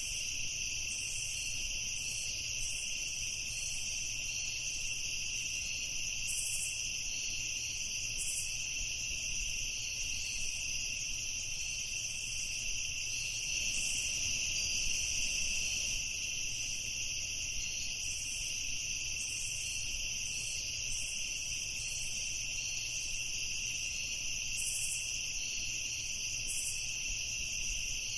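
Night chorus of crickets: a continuous, high-pitched trilling that stays steady throughout, with short higher chirps scattered through it and a faint low rumble underneath.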